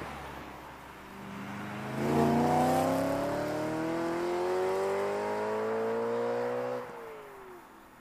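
2008 BMW E90 M3's V8 through Magnaflow mufflers and Macht Schnell track pipes, accelerating hard with the exhaust note climbing steadily for about five seconds. Near the end the throttle lifts and the note drops away.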